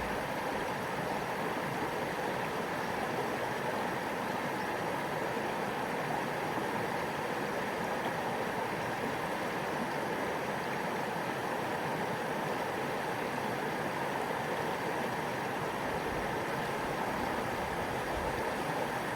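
Shallow stream babbling over stones, a steady, unbroken sound of running water.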